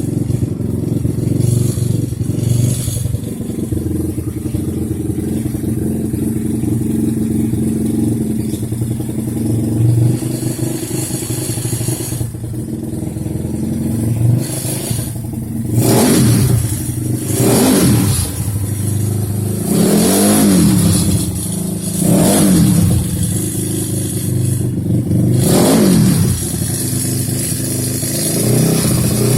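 Yamaha Mio Soul scooter's single-cylinder engine, tuned up to 150cc, idling steadily, then revved in about six quick throttle blips through the second half, each rising and falling in pitch.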